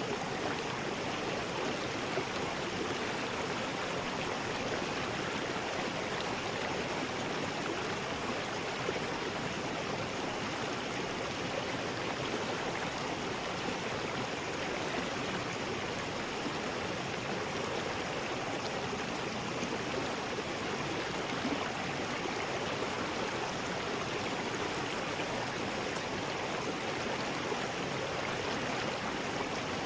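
River rapids: water rushing over rocks in a steady, unbroken roar.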